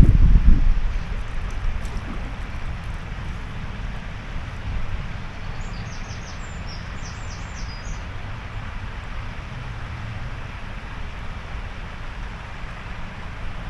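Wind buffeting the microphone as a low rumble over a steady rushing hiss of water, with a bird chirping briefly about six seconds in.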